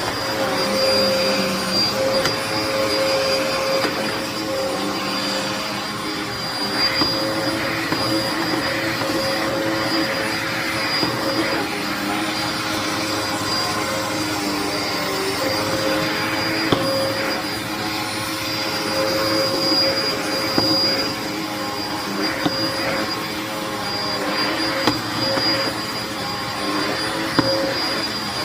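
Hoover upright vacuum cleaner running steadily with a constant motor whine, with a few brief clicks from debris going through. The owner says the vacuum was clogged.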